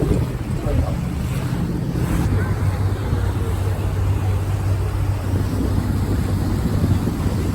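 Tour boat's engine running with a steady low hum while the boat is underway, with water and wind rushing over the microphone.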